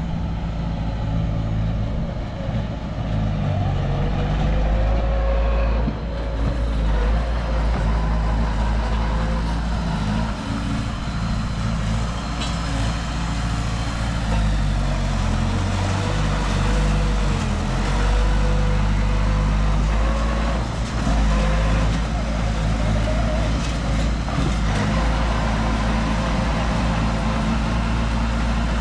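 Heavy diesel earthmoving machinery running under load, the engine note shifting up and down as it works, with a faint wavering whine above it.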